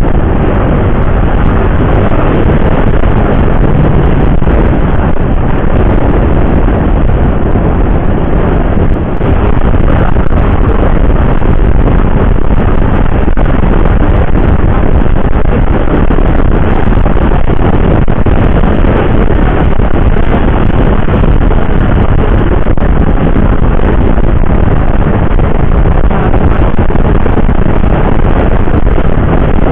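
Motorcycle riding at speed on an open road: a loud, steady rush of engine, tyre and wind noise on the rider's microphone, briefly dipping about nine seconds in.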